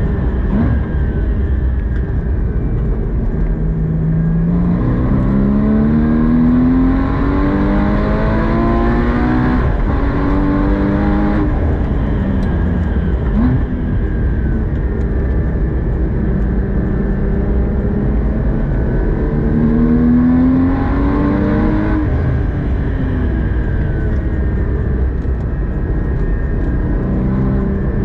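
Porsche 981 Cayman GT4's naturally aspirated 3.8-litre flat-six at full throttle on track, heard from inside the cabin: the engine note climbs through several quick upshifts, then falls as the car slows for corners, twice over, with road and tyre rumble underneath.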